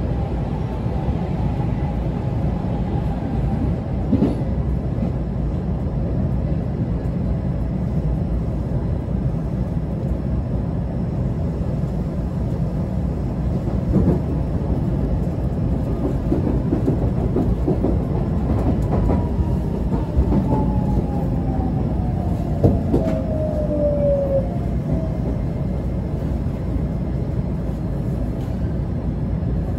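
Inside a JR Kobe Line Special Rapid electric train running along the line: a steady rumble with a few sharp clicks of the wheels over rail joints, and a whine that falls slowly in pitch for several seconds past the middle.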